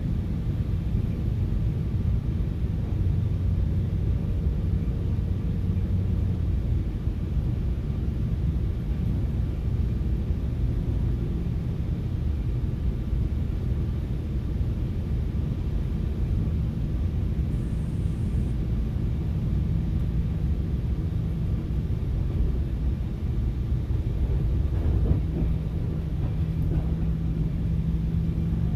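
Steady low rumble of a commuter train running, heard from inside the passenger car. A faint low hum comes and goes along with it.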